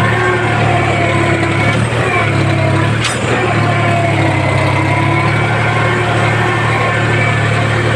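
Tractor's diesel engine running steadily at a constant speed, with a single short click about three seconds in.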